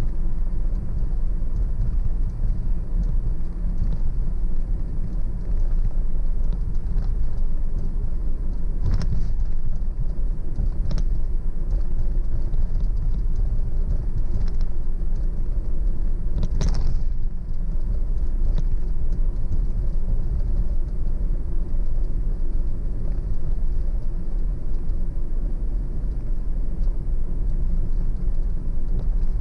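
Car driving on a road: steady low rumble of engine and tyre noise, with a brief sharp sound about nine seconds in and a stronger one about sixteen seconds in.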